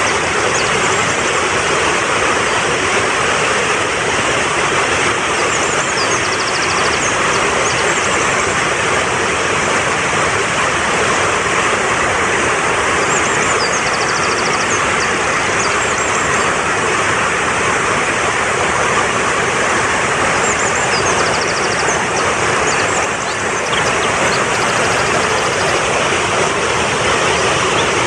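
Fast-flowing mountain stream rushing steadily. Over it, a small bird gives short, high trilled calls every several seconds.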